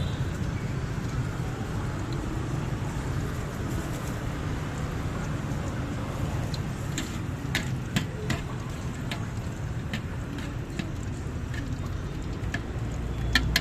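Street traffic rumble, mostly passing motorbikes and cars, with a scatter of sharp metallic clicks and taps in the second half.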